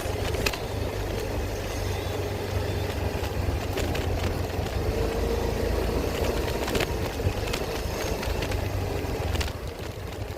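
Motor scooter riding along: a steady engine hum under a heavy low rumble of wind and road noise, with a few faint clicks.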